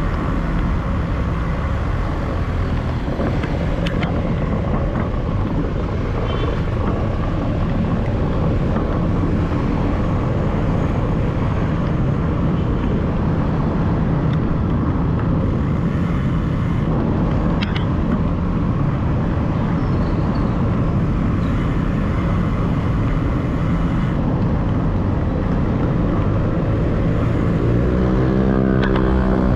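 City road traffic: a steady rumble of passing cars and motorcycles. Near the end a nearby engine revs up, its pitch rising.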